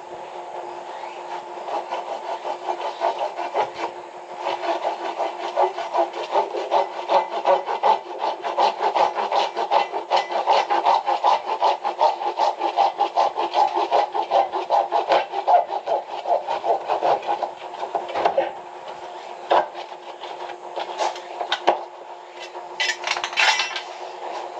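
Rapid back-and-forth rasping strokes of a hand tool, like sawing or filing, running steadily with a brief break about 18 seconds in and a few sharper clicks near the end.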